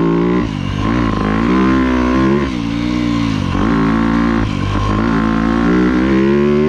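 2025 Yamaha YZ250F's 250cc four-stroke single-cylinder engine being ridden hard around a motocross track. Its pitch rises under throttle and drops off several times as the rider opens and closes the throttle.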